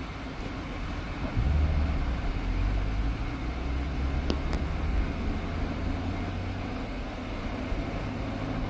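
Engine and road noise of a C7 Corvette Stingray's V8 heard from inside the cabin while driving, getting louder and deeper about a second and a half in.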